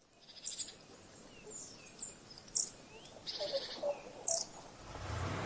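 Songbirds chirping and calling: short high chirps, quick trills and brief falling whistles, one after another. Near the end a low steady hum swells in.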